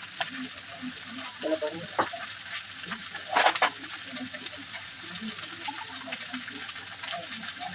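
Okra frying in a pan with a steady sizzle, broken by a few sharp metal clinks of utensils, the loudest about three and a half seconds in.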